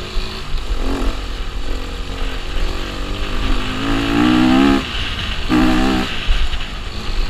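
KTM EXC-F 250 enduro motorcycle's single-cylinder four-stroke engine running under throttle on a dirt track, heard close up from the rider's helmet. The revs climb about halfway through, drop off, and pick up again briefly near the end.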